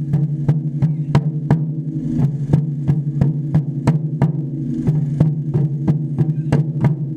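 Japanese taiko drums played in a steady beat, about three strong strikes a second with lighter strokes between, the drums' low ringing carrying on between strikes.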